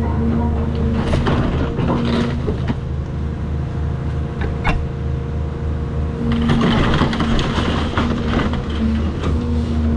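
Cat 336 hydraulic excavator's diesel engine running steadily under load, with a tone that comes and goes as the hydraulics work. From about six seconds in, crunching and cracking of house debris as it is torn apart and crushed.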